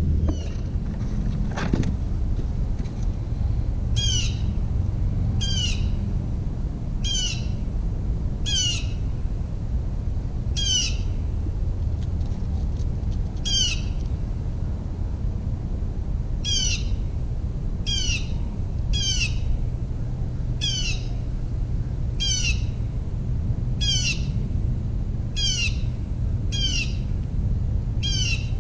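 A bird calling over and over: a short call that falls in pitch, repeated roughly every second and a half, over a steady low background rumble.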